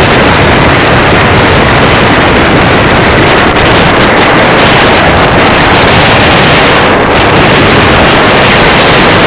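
Loud, steady wind rush buffeting the microphone of a camera riding on a moving electric bicycle, covering up any other sound.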